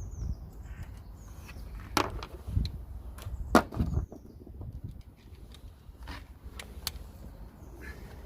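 Hand tools clicking and knocking against metal, a scattered series of sharp knocks with the loudest about three and a half seconds in, while the intake pipe is being taken off the turbocharger.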